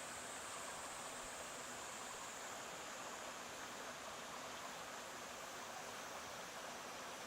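Stream water flowing steadily, an even rush with no breaks. A thin, steady high-pitched whine sits above it and drifts slightly lower in pitch.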